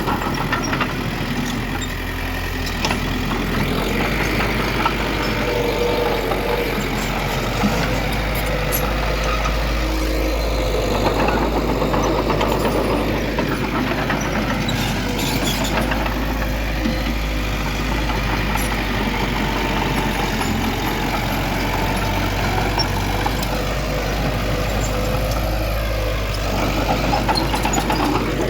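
Diesel engine of heavy earthmoving machinery running steadily, with a few scattered clanks.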